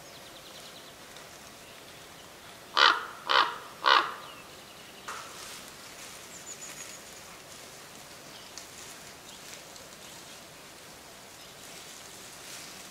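Three loud, harsh bird calls in quick succession, about half a second apart, then a faint background of woodland birds.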